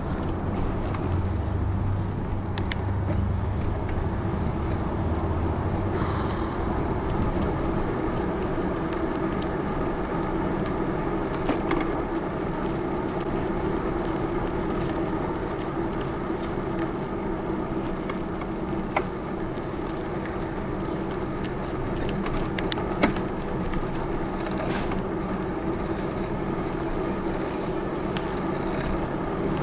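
The 650b tires of a Salsa Journeyman bike humming steadily as it rolls along, with a low rumble over the first several seconds and a few sharp clicks scattered through.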